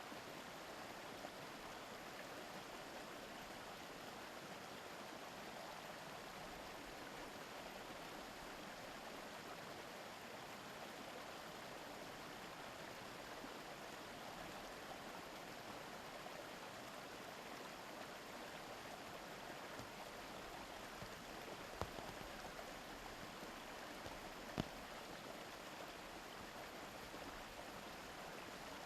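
Mountain stream babbling and rushing steadily over rocks. Two brief sharp clicks cut through it about three quarters of the way in.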